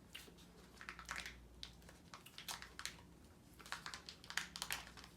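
Faint, scattered crinkles and clicks of a Kinder Joy egg's plastic packaging being handled and peeled open, thickening toward the end.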